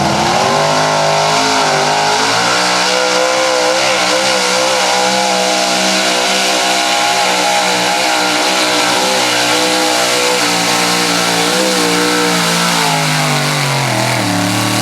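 Big-block pulling truck running at full throttle under load, its engine held at high revs with the pitch wavering slightly. Near the end the revs drop away and then rise again.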